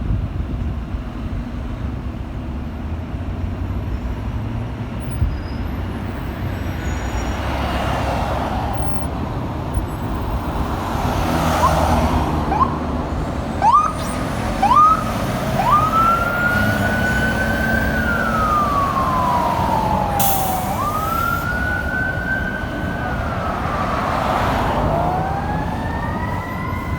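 Fire truck's engine rumbling as it pulls away, then its electronic siren (a Whelen Cencom Sapphire) giving a few short rising chirps before winding into a wail that rises, holds, falls and rises again.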